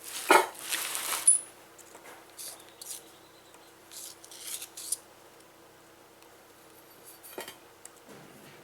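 Small metal parts clinking and knocking as they are handled: a sharp knock and a rustling clatter in the first second, then scattered light clicks and clinks.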